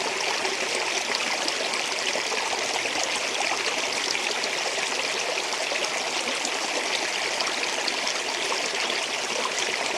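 Stream water flowing and splashing steadily over rocks, an even rushing with fine trickling splashes.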